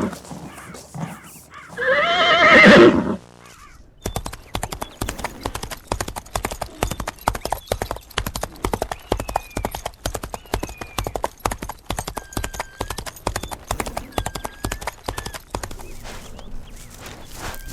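A horse neighs loudly once, about two seconds in. From about four seconds in, a dense run of rapid hoofbeats follows, horses galloping on the ground.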